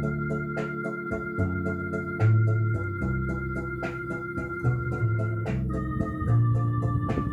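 Yamaha Electone BK-5C electronic organ (1978) playing held chords over a moving bass line, with a steady beat of short drum-like ticks.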